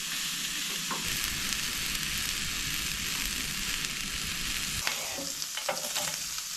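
Sausages frying in a pan, a steady sizzle, with a few light clicks near the end.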